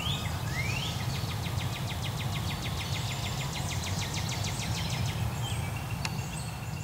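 A small bird singing: a rising whistle, then a fast, even trill lasting about four seconds, over a steady low rumble.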